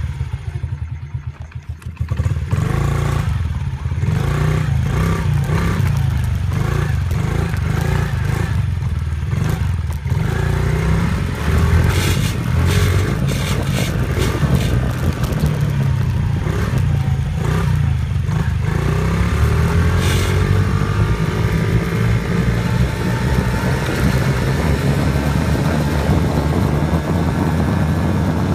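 Dirt bike engine running and revving, its pitch rising and falling again and again as it is ridden, after a quieter, lower running for the first couple of seconds.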